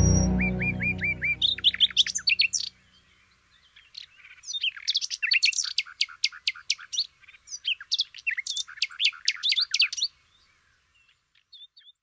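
New-age music fading out over the first two seconds or so, then a bird chirping in quick runs of short, falling high notes, stopping about ten seconds in.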